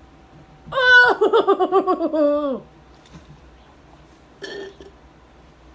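A woman's loud vocal outburst of disgust at a bad taste, high and wavering in quick pulses, falling in pitch over nearly two seconds, about a second in; a short, softer vocal sound follows a few seconds later.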